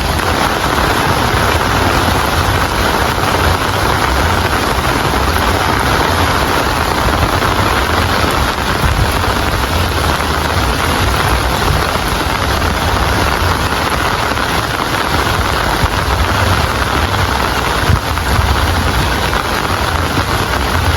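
Steady heavy rain: a constant dense hiss with a low rumble underneath, unchanging throughout.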